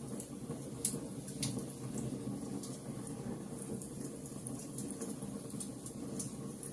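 Wood fire burning in a fireplace: the flames make a steady low sound, with frequent small sharp crackles throughout and a couple of louder pops in the first second and a half.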